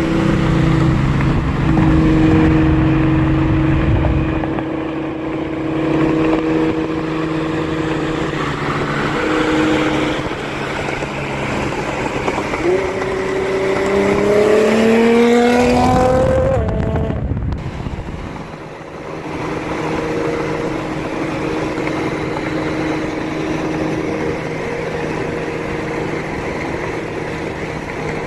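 Car engine running under way with a steady drone, then accelerating hard with the pitch climbing from about twelve seconds in until it breaks off at a gear change, after which it drones steadily again.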